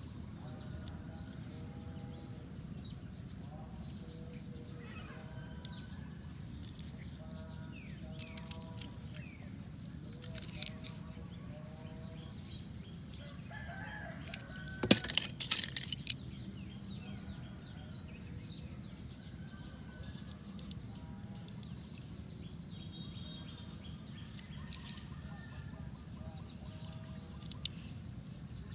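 Birds calling, short pitched calls scattered over a steady background hiss, with a quick cluster of sharp clicks about halfway through.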